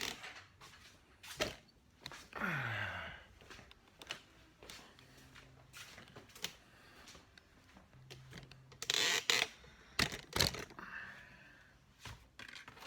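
Scattered clicks and knocks of hand tools and small metal parts being picked up and set down, with a short scraping rush about nine seconds in and a couple of sharper knocks just after.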